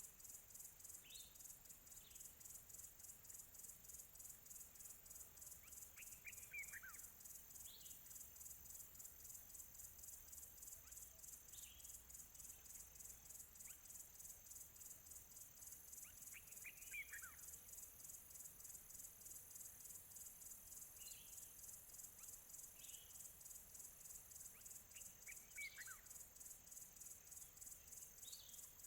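Faint birdsong over a steady, rapidly pulsing high insect trill. Short scattered chirps are heard, and three times, about ten seconds apart, a bird gives a quick series of notes falling in pitch.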